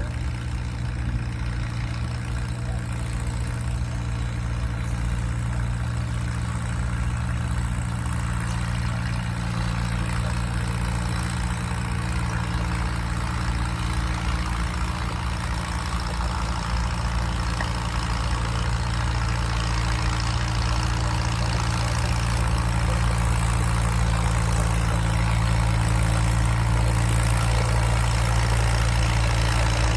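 Antique farm tractor engine running at a steady speed, its note growing gradually louder.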